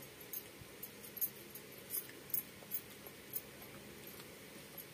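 Eating sounds: faint, irregular wet clicks and smacks of chewing while rice is eaten by hand, about a dozen short clicks in a few seconds.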